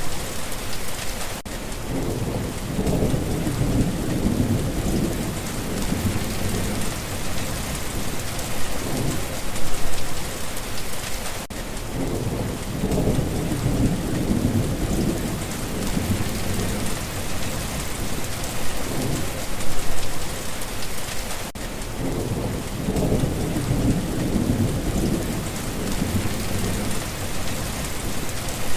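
Steady rain with low rolls of thunder swelling every few seconds, the same stretch of recording repeating about every ten seconds.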